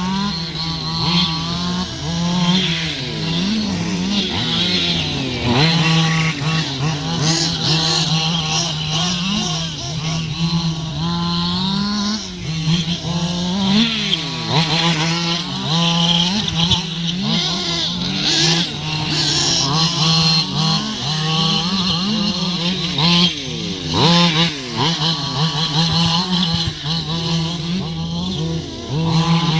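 Several radio-controlled model cars running around a track, their motors revving up and down over and over above a steady droning note.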